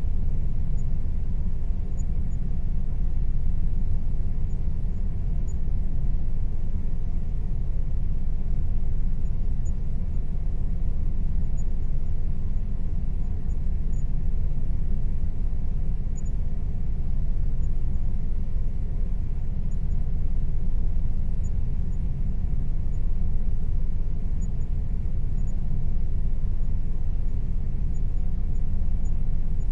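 Air conditioner running steadily: an even, low rumbling hum with a faint steady tone above it.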